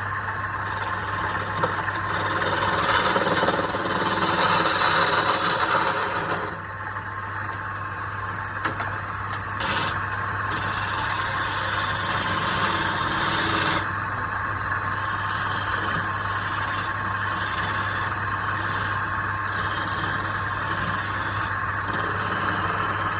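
Wood lathe running with a steady motor hum while a tool scrapes against the spinning wood. The scraping grows louder in passes, with a short sharp burst near the middle.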